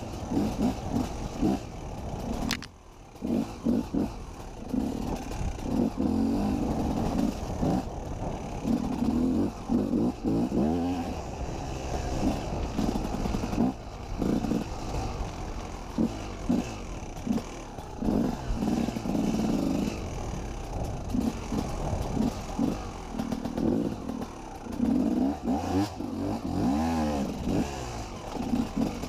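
KTM 250 EXC enduro motorcycle engine revving up and falling back again and again as the bike is ridden over rough trail. The throttle closes briefly about three seconds in, then the bike picks up again.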